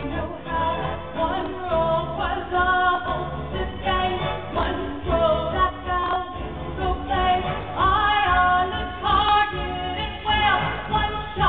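A woman singing a Broadway show tune solo over instrumental accompaniment.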